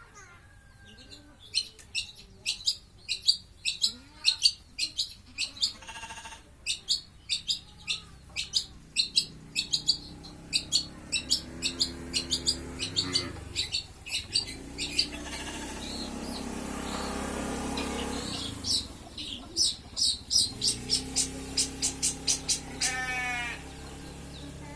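Long-tailed shrike (cendet) singing in the rapid 'grojogan' style: a fast, unbroken run of sharp, high chattering notes, several a second. Through the middle an engine, likely a passing motorbike, rises and falls beneath the song.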